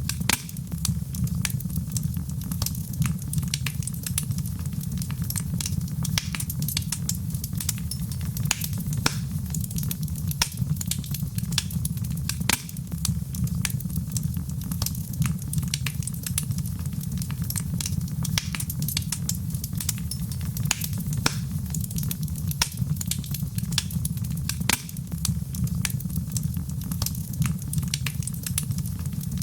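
Fire burning in a fireplace, crackling with many quick sharp pops and snaps over a steady low rumble.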